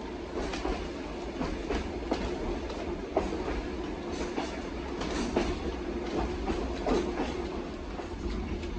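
Passenger train rolling along: a steady low rumble of the carriage, with uneven clicks and knocks of the wheels over the rail joints and a faint steady hum.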